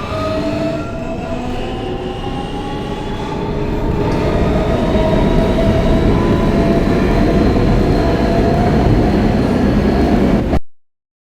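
R160B subway car with Siemens propulsion pulling away and running: the traction motors' whine rises slowly in pitch and levels off over a dense rumble of wheels on rail, growing louder a few seconds in. The sound cuts off abruptly near the end.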